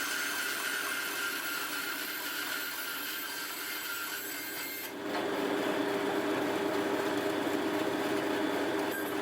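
Power saw running and cutting wood with a steady whine. About five seconds in the sound changes abruptly, getting louder and lower in pitch.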